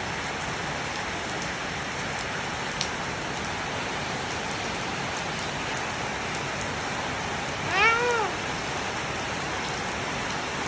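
Steady rain falling, with one short call from a toddler's voice, rising then falling in pitch, about eight seconds in.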